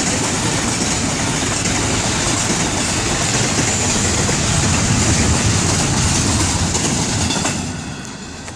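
Double-stack intermodal freight cars rolling past, a steady loud rumble and rush of steel wheels on rail. It fades about seven and a half seconds in as the end of the train goes by.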